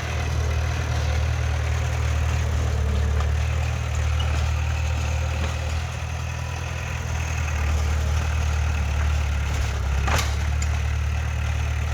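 Heavy diesel engine of earthmoving machinery running steadily at a low, even idle, with a single sharp knock about ten seconds in.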